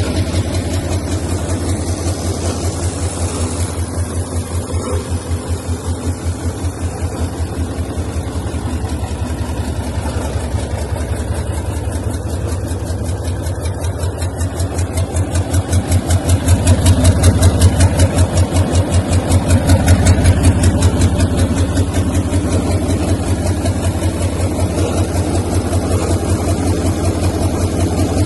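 Hyundai D8AV V8 diesel engine running on a test stand at idle with a steady, even pulsing. It swells louder twice past the middle as the engine is lightly revved, then settles back to idle.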